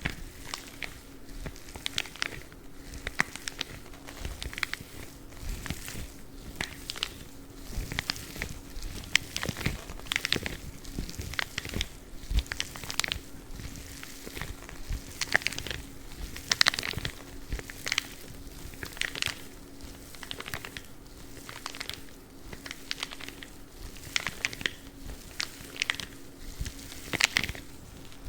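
Spiky gloves rubbed and scratched in a run of irregular, short crackling strokes, a few each second, over a faint steady hum.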